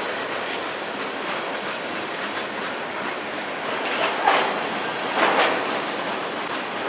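Freight train of PROCOR tank cars rolling past: steady wheel-on-rail rumble, with two louder clacks of wheels over rail joints about a second apart, around four and five seconds in.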